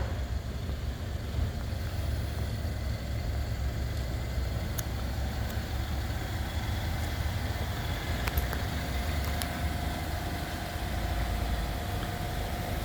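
A car engine idling steadily, a low rumble with a few faint clicks.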